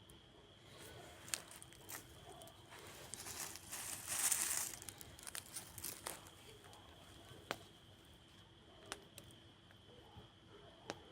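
Campfire burning, with scattered sharp pops and crackles and a louder rush of hissing crackle about three to five seconds in.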